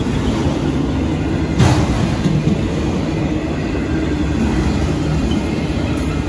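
Freight train of autorack cars rolling past, a steady rumble of wheels on rail, with one sharp knock about one and a half seconds in.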